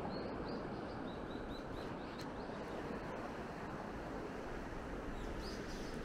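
A small bird chirping a quick run of short, high notes, about four a second, for the first couple of seconds and again near the end, over a steady rush of wind and sea.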